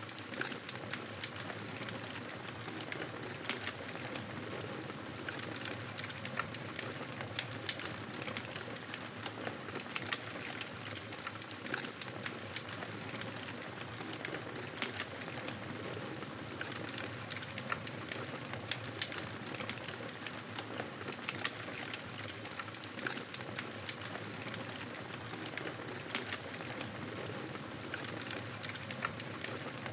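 Wood fire crackling steadily, with frequent small sharp pops and snaps over a soft continuous hiss of burning.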